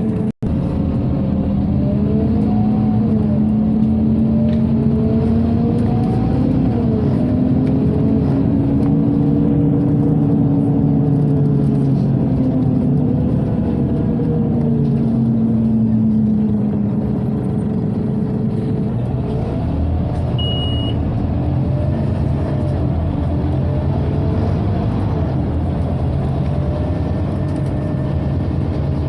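Scania OmniCity city bus in motion, heard from on board: the diesel engine's drone rises and falls in pitch as the bus speeds up and slows down, over a steady rush from the ventilation. A single short, high beep sounds about two-thirds of the way through.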